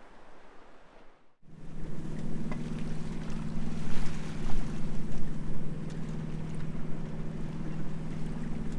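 A boat's engine running steadily with a low, even hum, over wind and water noise; it begins abruptly about a second and a half in, after faint hiss.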